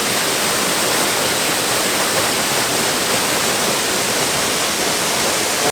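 Waterfall rushing steadily, a dense even roar of water falling over rock, at a low dry-season flow.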